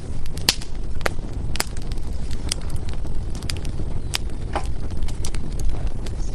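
Wood fire burning in a fireplace: sharp, irregular crackles and pops from the burning firewood over a steady low rumble of the flames.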